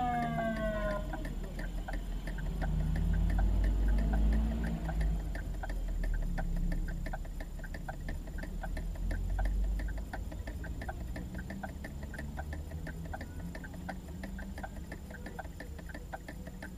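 A siren falls in pitch and dies away in the first second, then steady ticking, about three ticks a second, runs over a low rumble.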